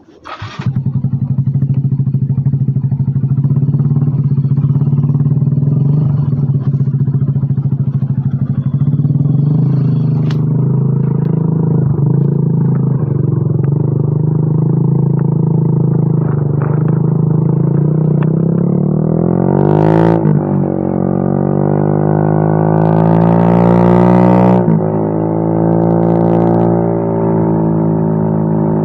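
Yamaha Mio M3 scooter's single-cylinder engine breathing through an aftermarket WRX exhaust, starting up and idling steadily. It is blipped with the throttle once about two-thirds of the way in, then revved again for about a second and a half shortly after, each time settling back to idle.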